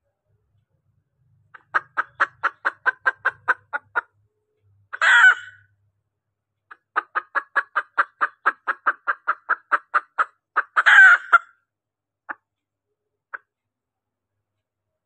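Female junglefowl clucking in two fast runs of about five clucks a second, each run followed by a louder, harsher single call, with two faint ticks near the end. It is a hen's call used as a lure to draw in cock junglefowl.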